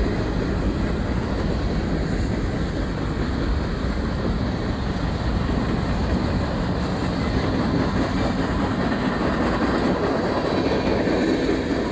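Freight cars of a passing mixed freight train (tank cars, a covered hopper, centerbeam flatcars) rolling by on steel wheels: a steady rail rumble with wheel clatter.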